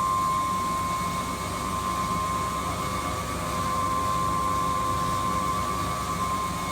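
Kenwood washing machine running, a steady high-pitched whine over an even rushing noise.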